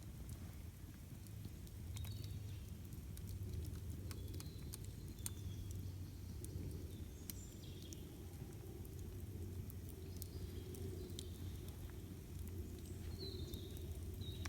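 Campfire burning, with scattered sharp crackles and pops over a steady low rumble. Short bird chirps come now and then.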